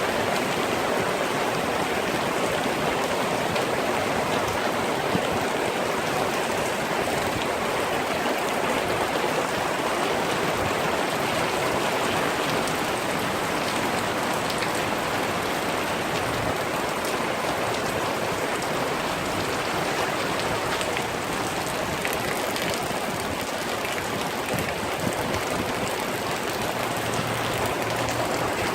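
Rain falling steadily, an even rushing hiss that holds at one level throughout.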